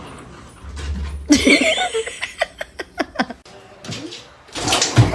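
A person laughing out loud in a quick run of short laughs, starting about a second in, with a louder stretch near the end.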